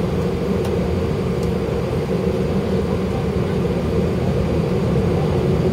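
Airbus A319 jet engines running steadily at low power, heard from inside the cabin as a constant hum and rumble with no build-up of thrust.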